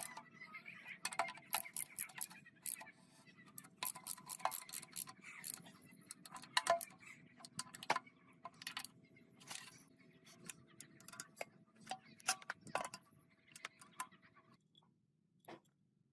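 Irregular clinks and clicks of small hard objects, likely metal parts or tools being handled, over a faint steady hum that stops about two seconds before the end.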